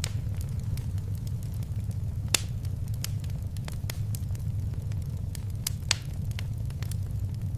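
Wood fire crackling in a fireplace: irregular sharp pops and snaps over a steady low rumble of the flames, with two louder pops, one about two seconds in and one about six seconds in.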